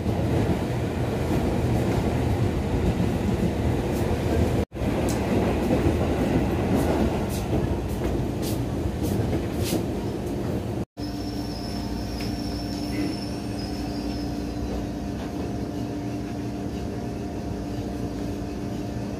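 Cabin noise inside a Tokyo Metro 5000 series electric commuter train car: a rough, steady rumble of running noise, cut off briefly twice. After the second break, about eleven seconds in, it gives way to a quieter, even hum.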